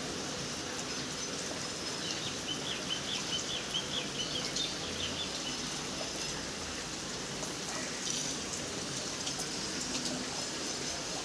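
Steady rain falling, with a bird giving a quick run of short, high chirps about two seconds in.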